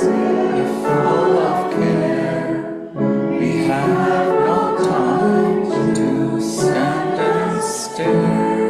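Congregation singing a hymn together, with several voices on held notes and short breaks between lines about three seconds in and again near the end.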